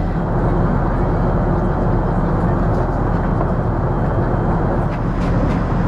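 Steady low rumble of an Airbus A380's cabin, heard from inside the aircraft, with a few faint clicks near the end.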